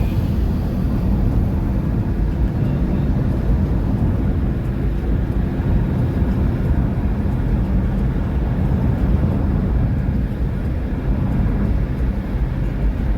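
Steady low rumble of a motor vehicle driving along a road: engine and road noise that holds level throughout.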